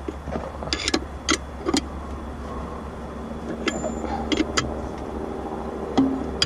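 A wrench working a bolt loose on steel machine parts: a scattering of sharp metal clicks and knocks, with a quick cluster about a second in and a louder knock near the end, over a steady low hum.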